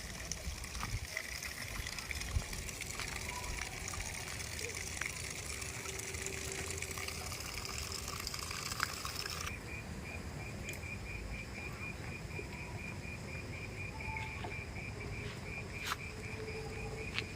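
Insects chirping in a rapid, even trill over a steady hiss like running water; the hiss cuts off suddenly about halfway through, leaving the trill clearer.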